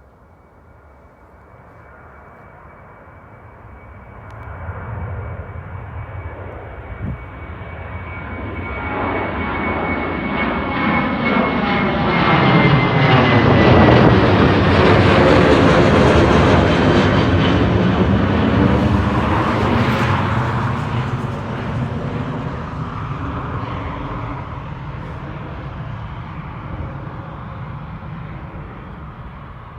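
Jet airliner passing by: the engine roar builds over about ten seconds, peaks around the middle and slowly fades. A high engine whine drops in pitch as the aircraft approaches.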